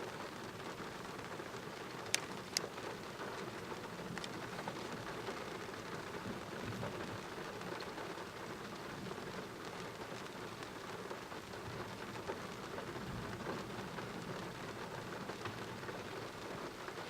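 Heavy thunderstorm rain falling steadily, with a few sharp taps of drops striking a hard surface about two seconds in.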